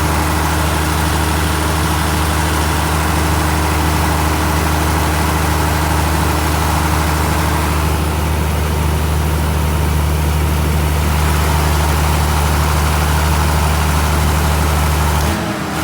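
Mitsubishi 6D16 inline six-cylinder diesel engine running steadily. Its tone shifts slightly about eight seconds in, and the sound changes abruptly just before the end.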